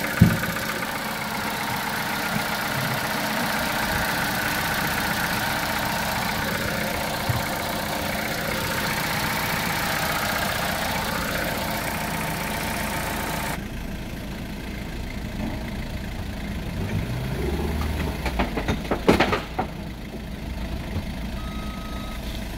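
Vauxhall Corsa 1.2 Ecotec four-cylinder petrol engine idling steadily, first heard under the open bonnet. About halfway through the sound turns duller as it is heard from inside the cabin, and there are a few knocks and clicks a few seconds before the end.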